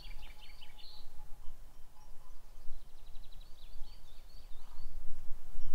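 Birds singing in runs of quick chirped notes, once near the start and again from about three seconds in, over a steady low rumble.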